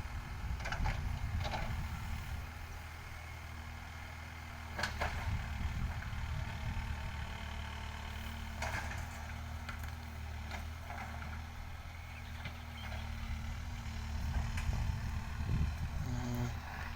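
Backhoe loader's engine running steadily, with a few short sharp knocks from the working machine.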